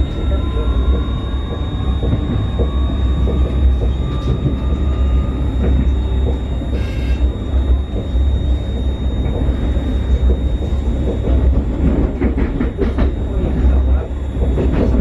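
Newag 19WE electric multiple unit under way, heard from inside the passenger car: a steady low rumble from the running gear, with a faint electric whine rising in pitch over the first few seconds. There is a brief high squeal about seven seconds in, and a run of wheel knocks over rail joints near the end.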